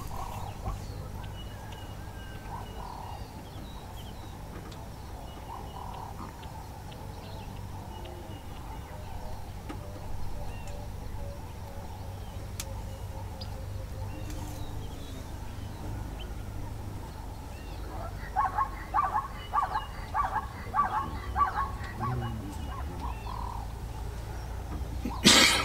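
Wild birds chirping and calling over a steady low rumble, with a quick run of repeated call notes a few seconds before the end. A single sharp knock comes just before the end.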